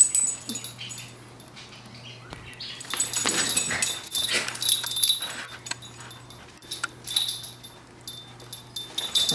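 Poodles making short dog sounds in a few separate bouts, with quieter gaps between.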